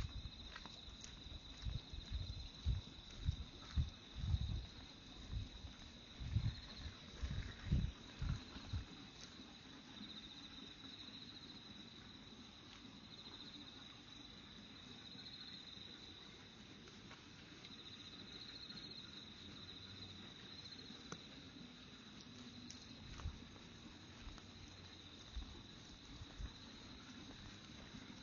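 Insects chirping steadily at a high pitch. Over them, low thuds of footsteps picked up by a clip-on microphone, about two a second for the first nine seconds or so. The footsteps then stop, and a few more thuds come near the end.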